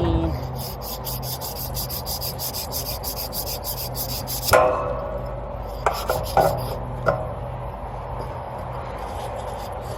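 Copper pipe being cleaned by hand with an abrasive before soldering: a quick, even rasping rub, stroke after stroke. A few louder knocks with a short metallic ring come about halfway through.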